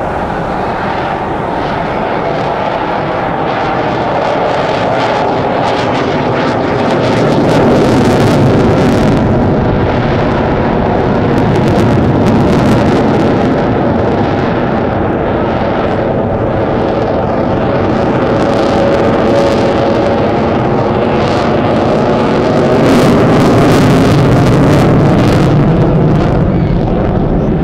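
Loud, sustained noise of a military jet aircraft flying by, with a crackling edge that swells and eases a few times.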